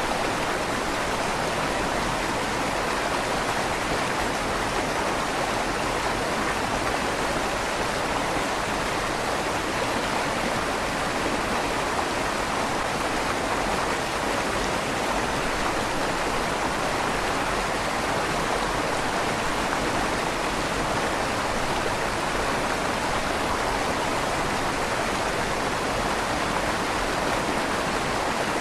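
River water flowing steadily through a stone tunnel under a bridge, a constant rushing with a light echo off the stone walls.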